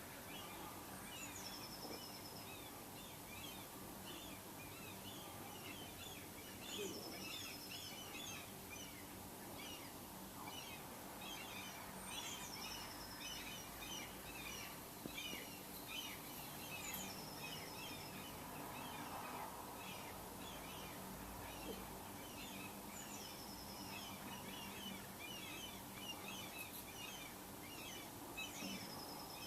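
Outdoor bird chorus: many birds give short chattering calls throughout. One small songbird repeats a high, descending phrase about every five seconds.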